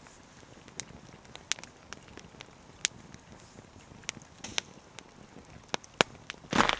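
Wood campfire crackling, with sharp, irregular pops a few times a second, then a louder rustle near the end.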